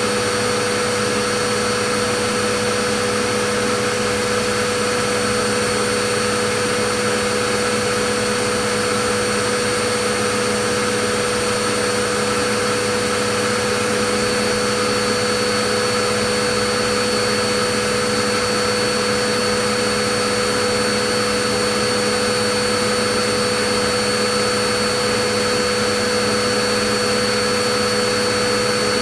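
Vacuum cleaner running steadily: a constant motor whine with a few fixed pitches over a rush of air.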